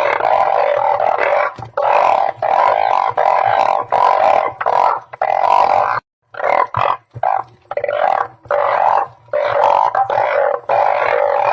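Chorus of balloon frogs (ueng phao, Glyphoglossus molossus) calling, with many long, low calls overlapping, broken by a short gap about six seconds in. It is a lure recording meant to draw the frogs to the spot where it is played.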